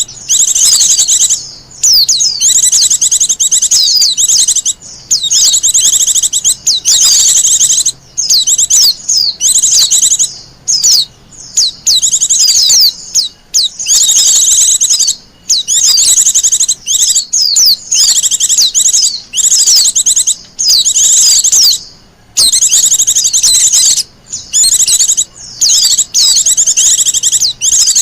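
Wild white-eye (pleci) singing: phrase after phrase of rapid, high-pitched twittering notes, with short breaks between phrases.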